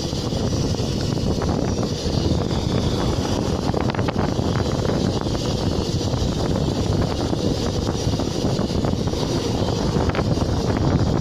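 Steady wind noise on the microphone of a small motorcycle in motion, mixed with the bike's running and road noise.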